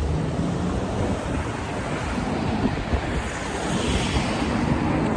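Wind buffeting the microphone, a gusting low rumble and rush of noise.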